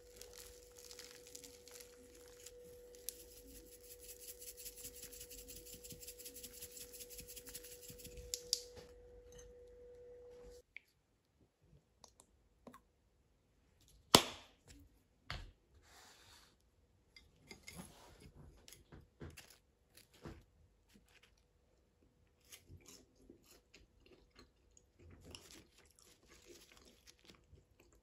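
Crunchy chewing of freshly fried potato fries, close to the microphone, over a steady hum that stops about ten and a half seconds in. After that a sharp click and scattered softer crunches and taps follow as more fries are eaten.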